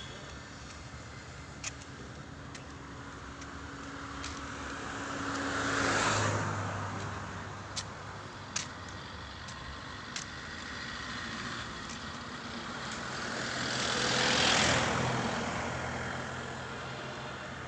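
Road traffic: two vehicles pass one after the other, each swelling in level to a peak and then fading away, over a steady background hum, with a few short sharp clicks.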